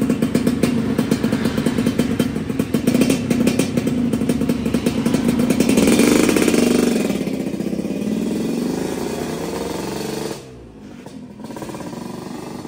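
Yamaha RX-King's two-stroke single-cylinder engine running hard on a test ride after a major service and tune. Its pitch rises about six seconds in, and then it grows fainter.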